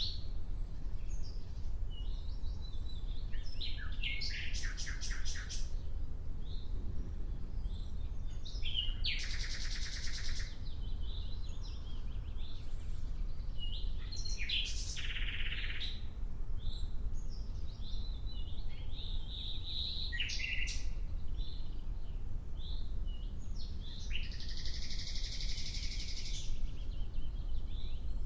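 Nightingale singing: a phrase of rapid repeated notes or a trill every few seconds, with short single notes between them, over a steady low rumble.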